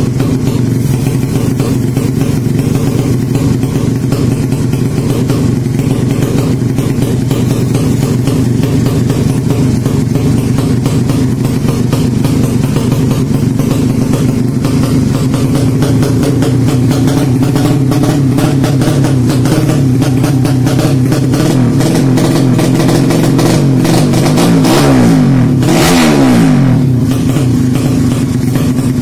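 200cc motorcycle engine running steadily, revved up once and let back down about three quarters of the way through.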